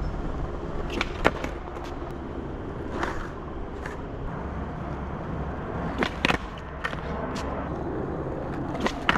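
Skateboard wheels rolling on concrete with a steady rumble, broken by a series of sharp clacks of the board striking the ground, some in quick pairs.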